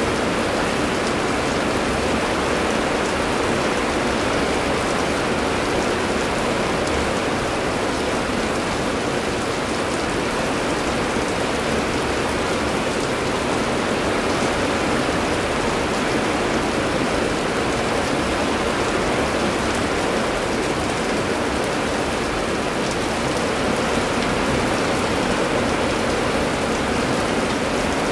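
Heavy rain falling steadily with an even hiss, no thunder.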